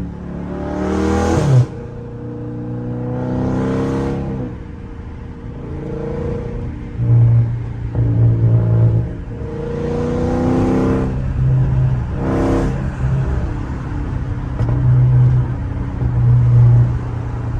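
Catless Dodge Scat Pack's 392 HEMI V8 accelerating hard in a run of about four pulls. Each pull rises in pitch and drops off suddenly, with steady running at a lower pitch in between.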